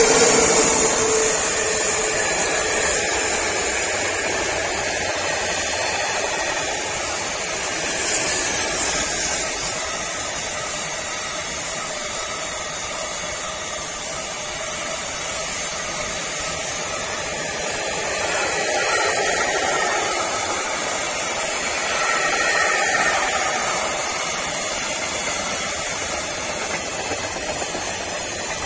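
Freight train of flat wagons hauled by an ET22 electric locomotive rolling past. It is a steady rush of wheels on rail, loudest at the start as the locomotive goes by, then holding with slight swells as the wagons pass.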